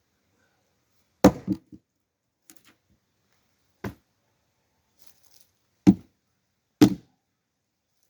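Axe splitting firewood: sharp, separate blows into a hard log. A loud blow comes about a second in, followed by a quick second knock. A fainter one comes near the middle, then two loud blows about a second apart near the end.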